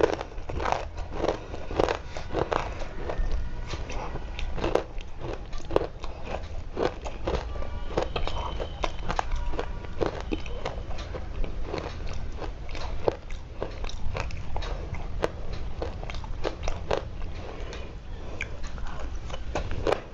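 Dry clay being bitten and chewed close to the microphone: irregular crisp crunches, several a second, without a break.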